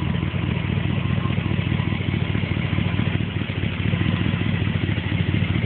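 Tuned-port-injected small-block V8 of a 1980 Corvette idling steadily through sidepipes, a deep, even burble.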